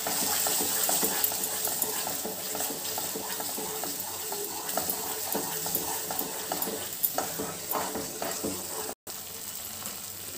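Thick tomato-and-butter masala gravy sizzling in a nonstick kadhai on high flame while a wooden spatula stirs and scrapes through it: a steady frying hiss under repeated scraping strokes. The sound cuts out for an instant near the end.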